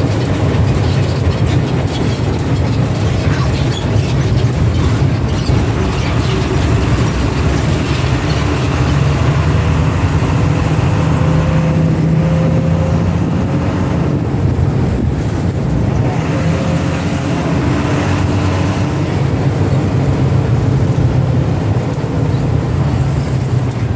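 Bus engine running steadily with road noise, heard from inside the moving bus. The engine's tone shifts a little partway through.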